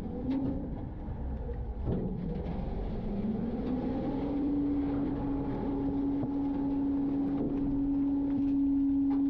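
Garbage truck running with a low rumble; a steady droning hum comes in about three and a half seconds in and holds, with a few light clicks.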